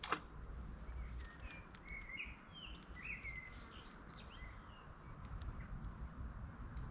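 Birds chirping faintly: a string of short rising and falling calls over a low outdoor rumble, with a single sharp click right at the start.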